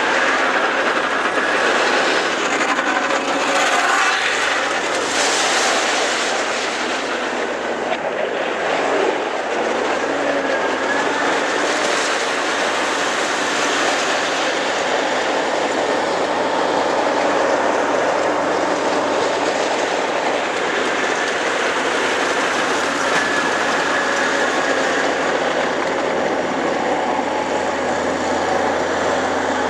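PistenBully 240 snow groomer driving steadily, its diesel engine running with the clatter of its tracks.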